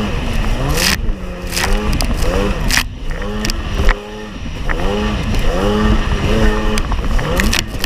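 1994 Sea-Doo XP jet ski's 80 hp two-stroke engine revving up and down in repeated surges as it crosses choppy water, with sharp slaps of the hull against the waves.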